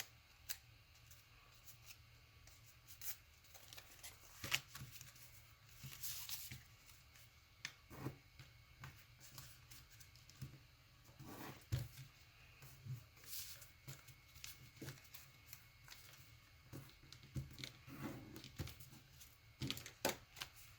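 Paper being folded and creased by hand: irregular soft rustles and crisp clicks of the sheet as folds are made and pressed flat.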